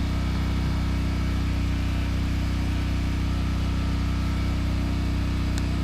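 An engine running steadily at idle, a low even hum that does not change, with one faint click near the end.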